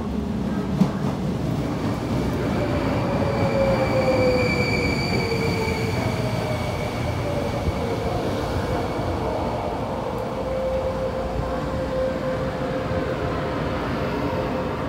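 Taiwan Railways EMU500 electric multiple unit braking into a station and drawing to a stop. A steady rumble of the cars rolls by, with a high brake squeal for a few seconds and a whine that falls slowly as the train slows.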